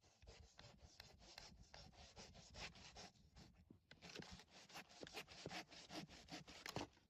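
Hand saw cutting wet firewood: a quiet run of rapid rasping strokes, pausing briefly midway before going on.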